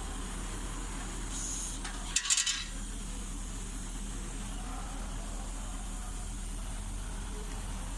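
A quick cluster of sharp metallic clinks about two seconds in, metal tools or parts knocking together during wheel-hub work, over a steady low background hum.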